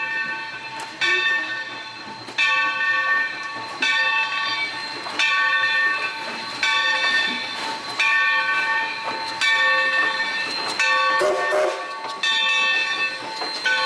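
Steam locomotive bell ringing steadily, about one stroke every second and a half, each stroke ringing on as it fades.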